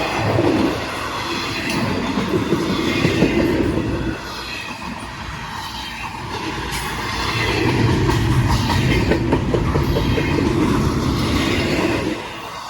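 Train rolling past close by, a steady rumble with the wheels clicking over rail joints. It swells twice and falls off shortly before the end.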